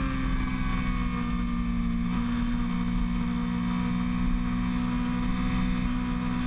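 Motorcycle engine running at steady high revs under wind and road noise, its pitch settling after a slight drop just before.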